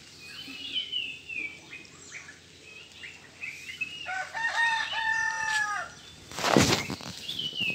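Birds calling: small birds chirp in quick, repeated falling notes. About four seconds in, a lower, longer call is held for nearly two seconds. A short, loud rustling burst follows near the end.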